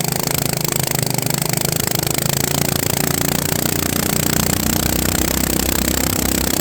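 FPV drone's motors and propellers buzzing steadily, with a pitched hum over a noisy whir.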